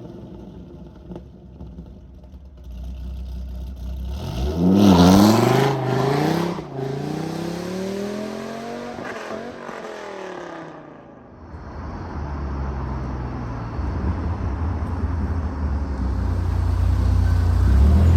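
A Dodge Viper's 8.0-litre V10 through a Corsa catback exhaust with no catalytic converters. It revs sharply about four and a half seconds in, falls away in pitch over the next few seconds, then builds again as a deep rumble that grows louder toward the end.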